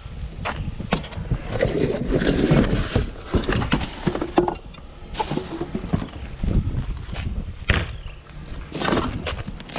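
Irregular knocks, clanks and scraping from scrap being handled and taken apart by hand.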